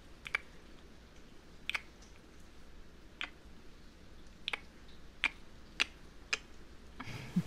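About seven short, sharp clicks at irregular intervals over a faint steady hiss, with a brief low sound near the end.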